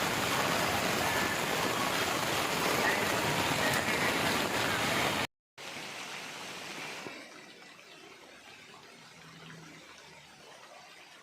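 Heavy rain pouring, a loud steady hiss that cuts off abruptly about five seconds in. After a brief silence a much quieter rain hiss goes on, dropping lower again about a second and a half later.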